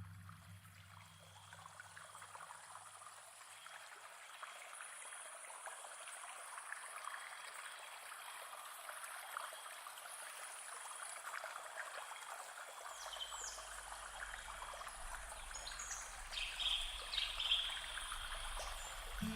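Water running steadily like a small stream or trickle, growing slightly louder, with a few short high chirps in the last few seconds.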